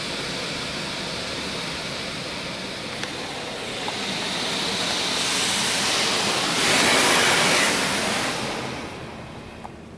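Belanger Kondor KL2 touchless car wash spraying clear coat onto the car, heard from inside the cabin: a steady hiss of water on the body and glass. It swells from about halfway in, is loudest a little past the middle, then fades away near the end.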